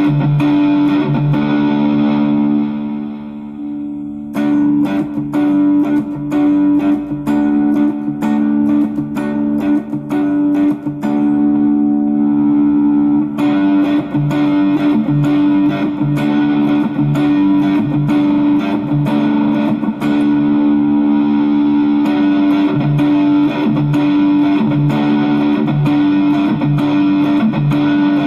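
Electric guitar fitted with a treble bleed circuit on its volume pot and an Orange Drop tone capacitor, played overdriven through effects: ringing held notes under busy picked lines. It goes briefly softer about three seconds in.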